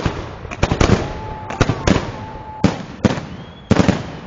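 Aerial firework shells bursting in a fast series of sharp bangs, single or in quick clusters, about one every half second to second, with faint whistling tones between the bangs.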